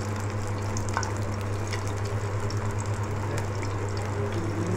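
Masala-coated pieces of goat brain frying in hot oil on a tawa: a steady sizzling hiss with scattered small crackles and pops, over a steady low hum.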